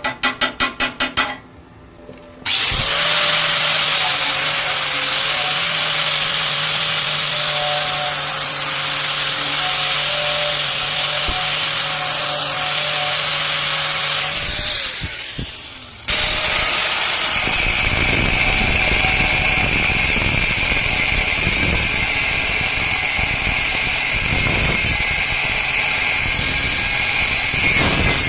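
A few quick rasping strokes, then a handheld power tool working metal. It runs steadily with a motor whine for about twelve seconds, dips, then starts again for a harsher, rougher stretch.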